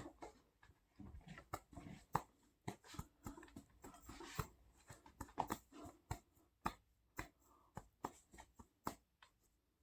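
Faint, irregular clicks and taps, several close together at times, with no music or singing.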